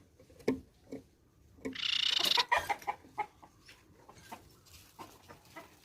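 A bird's harsh chattering call lasting about a second, starting near the two-second mark, among scattered short clicks.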